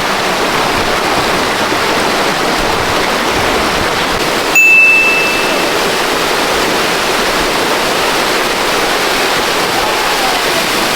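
Steady rush of flowing water at a natural river water slide. About halfway through, a single high, steady tone sounds for about a second, louder than the water.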